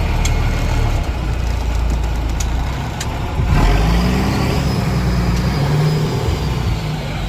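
An engine running steadily, with a few sharp clicks early on; about three and a half seconds in it grows louder and shifts in pitch.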